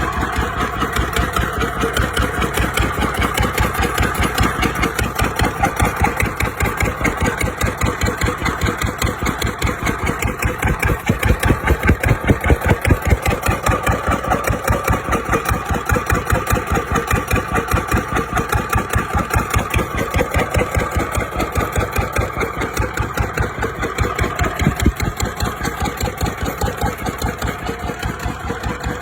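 Lister stationary diesel engine running steadily, with an even, rhythmic exhaust beat that swells a little louder for a couple of seconds partway through.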